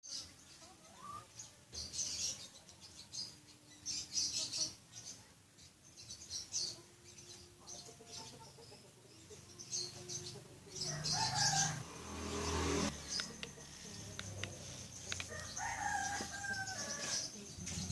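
A rooster crowing, once about eleven seconds in and again near the end, with scattered small clicks and knocks between.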